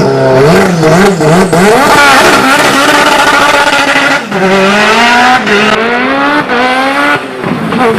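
Turbocharged VW ABF 2.0-litre four-cylinder in an Opel Astra 4x4 hillclimb car running hard: the revs rise and fall several times in the first second and a half, then climb through the gears with quick upshifts, the pitch dropping sharply at each shift about four, five and a half and seven seconds in.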